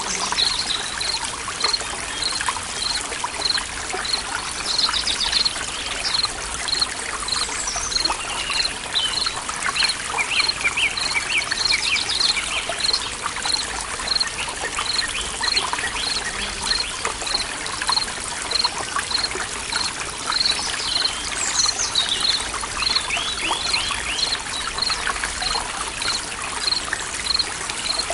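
Water trickling and splashing steadily in a forest stream. Over it, a high peep repeats evenly about twice a second, and birds chirp a few times.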